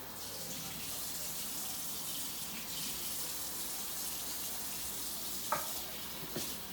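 Kitchen faucet running in a steady stream, with a light knock about five and a half seconds in and another near the end.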